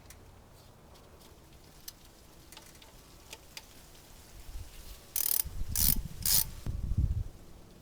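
Ratchet wrench clicking in three short strokes a little past the middle, after a few faint ticks, as a fitting on the engine's fuel system is tightened.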